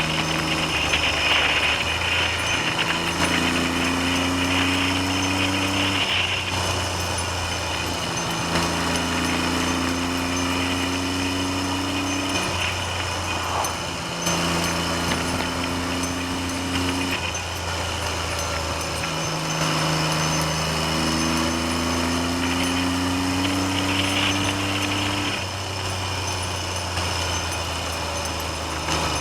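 Triumph Trident three-cylinder motorcycle engine running on the road, its pitch climbing slowly and dropping back several times. Wind noise on the microphone.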